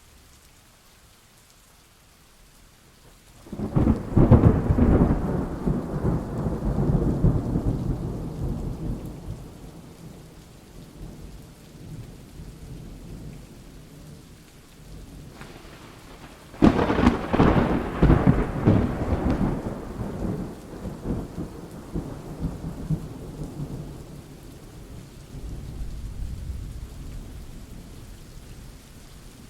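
Thunderstorm: steady rain with two sudden thunder claps, one about three and a half seconds in and a louder one just past the middle. Each rolls off over several seconds, with a softer rumble near the end.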